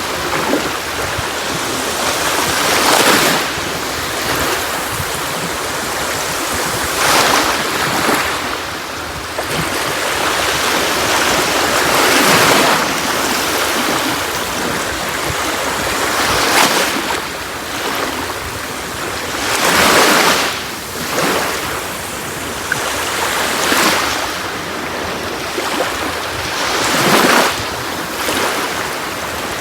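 Sea waves washing onto a shore: a continuous hiss of water, with a surge of surf about every four seconds.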